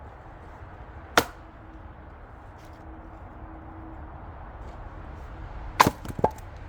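Axe splitting black locust firewood: one sharp chop about a second in, then another chop near the end, followed closely by a lighter knock.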